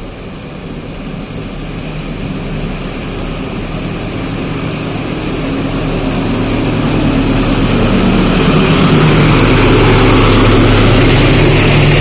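A diesel locomotive's engine drone growing steadily louder as a train approaches, levelling off near the end.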